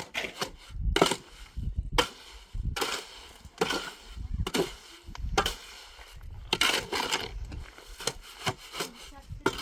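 A series of irregular knocks and scraping impacts, a few each second.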